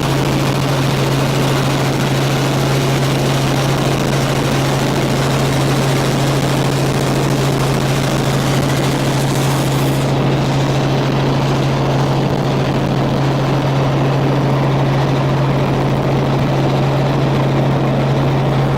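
Helicopter running steadily, a constant loud low drone under broad rushing noise; the high hiss thins out about halfway through.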